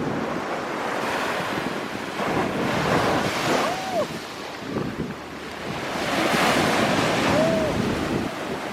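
Sea waves breaking and washing up on a sandy beach, swelling twice, with wind buffeting the microphone.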